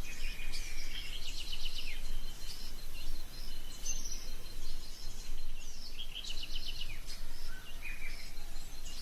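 Tropical forest ambience with birds calling: two quick chattering call series, about a second in and again about six seconds in, with short whistled notes between them over a steady faint high pulsing tone.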